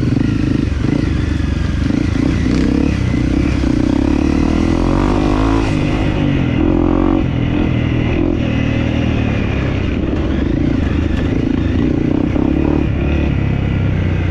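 Dirt bike engine running under load while ridden off-road, the revs rising and falling around the middle, with clatter from the rough trail.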